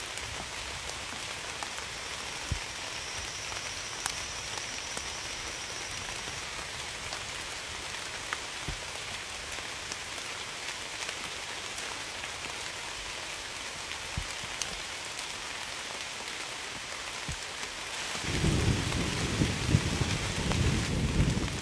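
Steady rain hissing down, with scattered sharp drop taps. About eighteen seconds in, a deep rumble of thunder sets in and grows louder.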